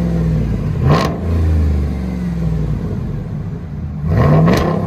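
Ram 1500's 5.7L HEMI V8 running through a Carven TR performance muffler with the resonators removed and dual tailpipes: a low idle blipped twice, a quick rev about a second in and another near the end.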